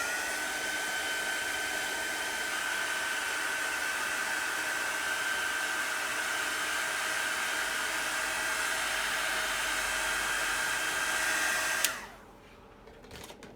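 Handheld dryer blowing steadily to dry freshly applied chalk paste, a rushing airflow with a steady motor whine; it switches off abruptly about twelve seconds in.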